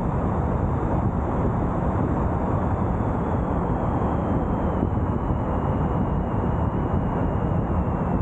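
Steady road and wind noise from a car driving along, with a faint high whine slowly falling in pitch.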